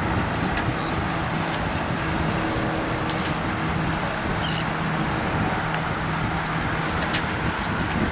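A boat engine running steadily with an even drone, under a steady rushing noise.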